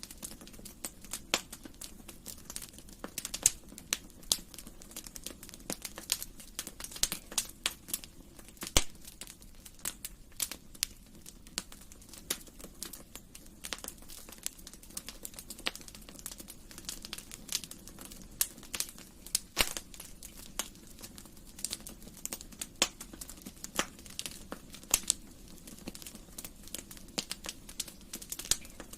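Wood fire crackling in a fireplace: irregular sharp pops, several a second and some much louder than others, over a faint steady low background.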